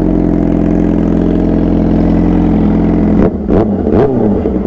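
Suzuki GSX-R600 sport bike's inline-four engine running at a steady pitch while riding, then about three seconds in the note briefly wavers and changes pitch for a second or so before settling back.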